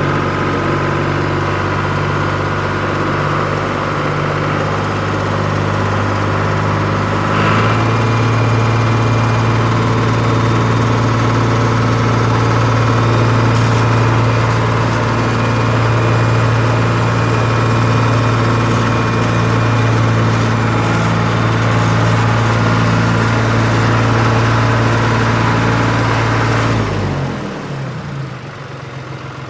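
Engine sound idling steadily. It shifts to a slightly different steady pitch about seven seconds in and drops away near the end.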